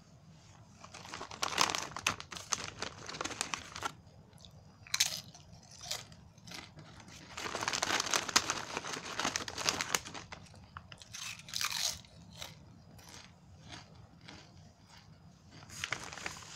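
Paqui Ghost Chili Pepper tortilla chips being crunched and chewed with the mouth, in several bursts of crunching with quieter chewing between.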